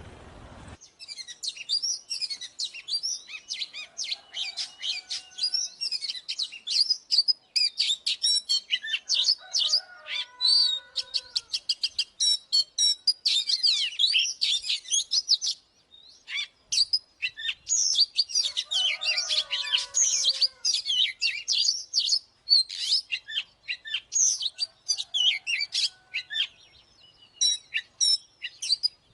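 Oriental magpie-robin singing a rapid, varied song of whistles, glides and chattering notes, with a brief pause about halfway through.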